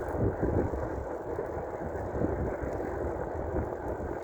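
Steady low rumble of wind buffeting the microphone and road noise while riding an electric bike along the road.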